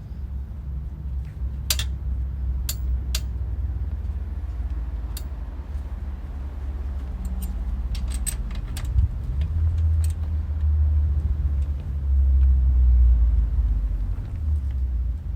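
Low, uneven rumble of wind on the microphone, with a few light metallic clinks of small parts and tools being handled during motorcycle rear-wheel and bearing work. The clinks come singly in the first few seconds and in a quick cluster about eight seconds in.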